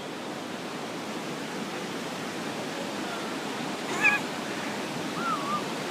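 Steady rushing of the Pistyll Rhaeadr waterfall, with a distant voice shouting briefly about four seconds in and a fainter call just after.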